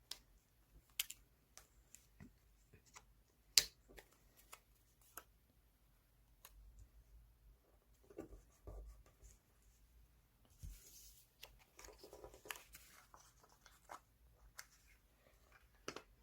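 Paper and stationery handled in a scrapbook journal: scattered light taps and clicks, with a stretch of paper rustling about two-thirds of the way in.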